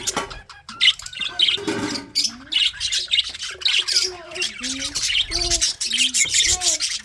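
A colony of budgerigars chattering, a dense, constant mix of chirps and squawks from many birds at once.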